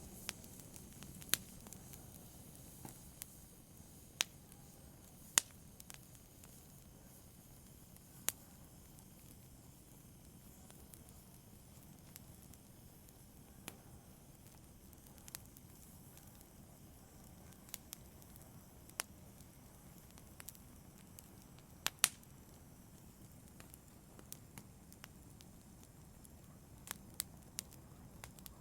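Wood fire crackling in a fireplace: a low steady hiss with irregular sharp pops and snaps, a few louder pops among many faint ones, the loudest at about five seconds in and again at about twenty-two seconds in.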